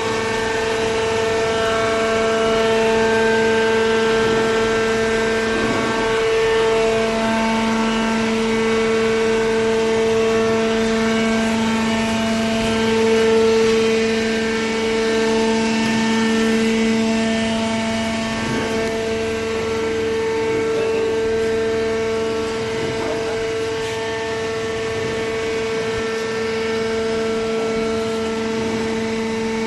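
Hydraulic baler running: a steady, loud mechanical hum from its pump motor, holding one pitch throughout, with faint rattling over it.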